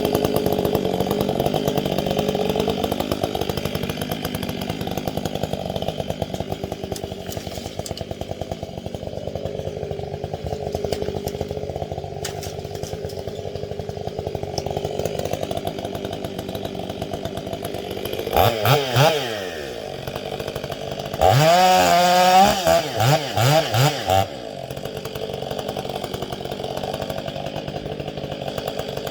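Gas chainsaw running near idle, revved in three quick blips about two-thirds through, then throttled up again for a few seconds with several more short blips before dropping back to idle.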